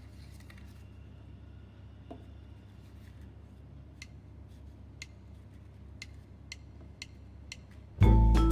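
Faint low hum with soft, sharp ticks, about one every half second to a second in the second half. Loud background music cuts in near the end.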